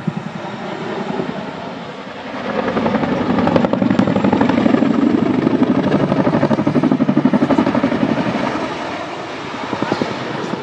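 Helicopter flying past, its rotor blades chopping in a fast, even pulse. It grows louder a couple of seconds in, stays loud, then eases off near the end.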